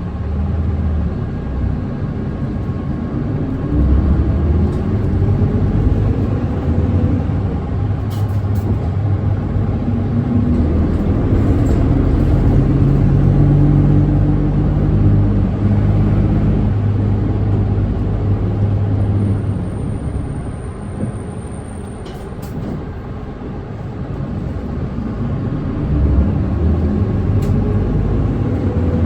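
Nissan Diesel Space Runner city bus's diesel engine heard from inside the cabin. It pulls away, rising in pitch, then runs steadily under way. It eases off for a few seconds past the middle and picks up again near the end, with a few faint clicks.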